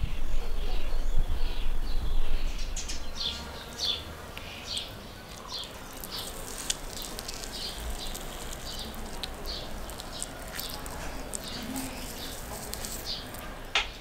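Small birds chirping, a run of short high chirps. A low rumble fills the first few seconds, and scattered soft clicks come later.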